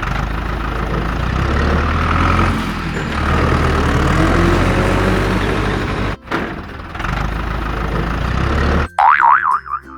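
Heavy truck engine running steadily with a deep rumble, cutting out briefly about six seconds in. Near the end it stops and a warbling siren-like tone starts.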